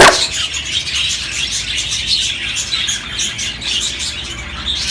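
A flock of budgerigars chattering and chirping continuously, many rapid overlapping calls.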